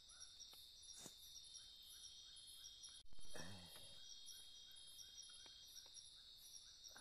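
Steady high-pitched chorus of forest insects such as crickets, with a faint chirp repeating about twice a second. About three seconds in, a brief low human vocal sound falling in pitch stands out as the loudest thing.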